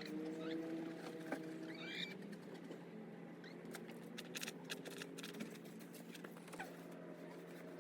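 Chickens calling softly: a drawn-out low call trailing off at the start, a few short high chirps, then a patch of light clicks from pecking or scratching in the middle, over a steady low hum.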